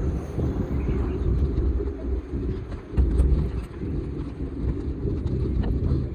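Wind buffeting the microphone of a moving bicycle: an uneven low rumble that swells and dips, with a few faint ticks.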